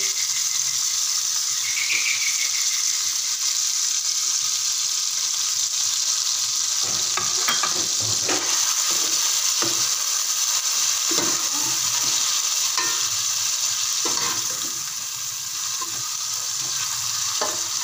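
Raw chicken pieces sizzling as they fry in hot oil with ginger-garlic paste: a steady hiss. From about seven seconds in, a metal slotted spoon scrapes and clinks against the aluminium pot as the pieces are stirred.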